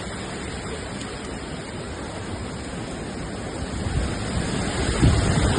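Hurricane storm noise: a steady rushing of wind and water, building in the last second or so as gusts start buffeting the microphone with low rumbles.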